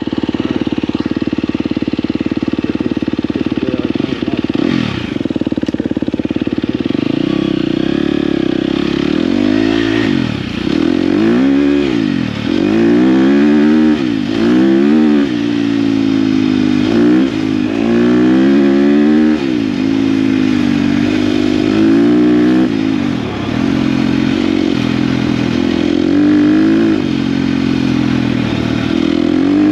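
KTM dirt bike engine running steadily, then revving up and dropping back over and over, about every second or two, as the bike is ridden.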